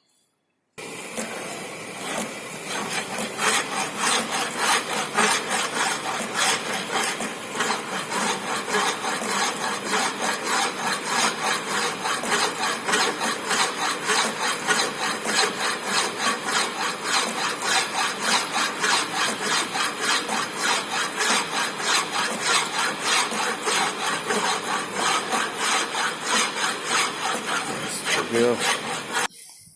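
Hand file rasping back and forth on a turned rod, the finished tensile test piece, in a steady run of strokes about three a second, to remove burrs and smooth the rough cut surface. It starts about a second in and stops just before the end.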